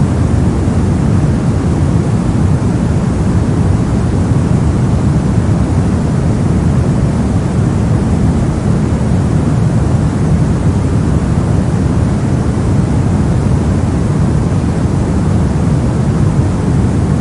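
Steady soft noise of the white-noise kind played continuously for sleep or focus. It is deep and even, with most of its weight in the low end and little hiss on top.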